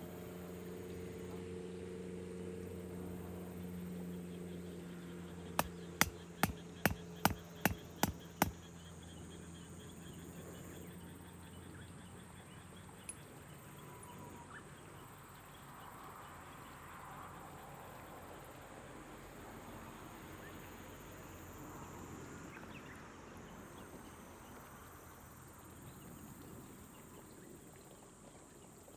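Soft rain ambience over rice terraces, with insects. A low steady hum fades out over the first ten seconds. About six seconds in comes a quick run of about eight sharp clicks, roughly three a second.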